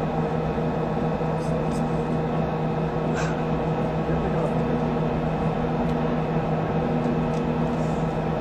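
Steady hiss and hum of an open radio communications channel between callouts, with a faint click about three seconds in.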